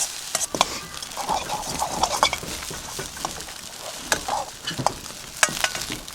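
Fried rice being stirred in a wok over a wood fire: many irregular scrapes and knocks of a utensil against the pan over a steady sizzling hiss.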